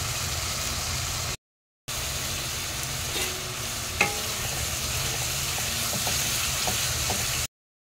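Spice paste of tomato, onion, ginger and garlic sizzling in hot oil in a kadai as it is stirred, with a spatula tapping and scraping the pan a few times. The oil is separating from the masala, which shows the paste is well fried. The sound drops out completely twice for a moment.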